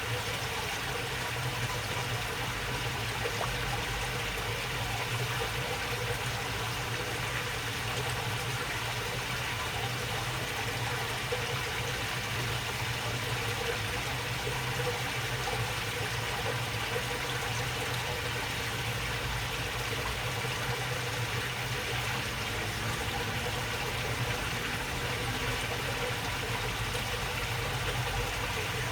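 Shallow water flowing steadily along a narrow waterway channel, an even babbling trickle, with a steady low hum underneath.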